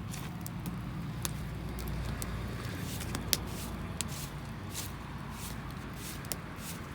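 Wood fire crackling, with irregular sharp pops over a steady low rumble; the firewood is damp and drying as it burns.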